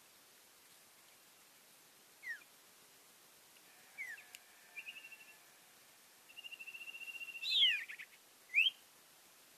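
Common iora singing: a few short down-slurred whistles, then two rapid trills, the second longer, followed by a loud downward-sweeping note and a final rising whistle near the end.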